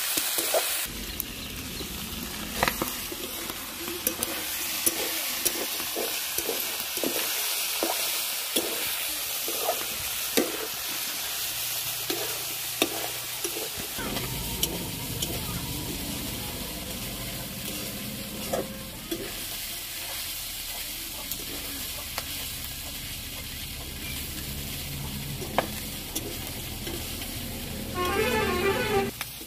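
Chicken spare parts and kochu (taro) sizzling as they fry in a metal kadai, while a metal spatula stirs and scrapes the pan, roughly a stroke a second at first. A brief louder sound comes near the end.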